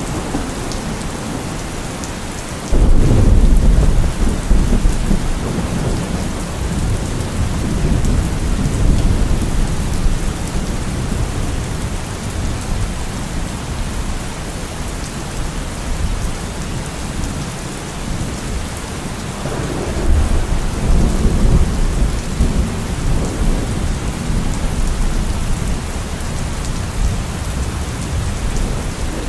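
Steady rain with rolling thunder: a sudden loud thunderclap rumbles about three seconds in and fades over several seconds, and a second rumble swells up near twenty seconds in.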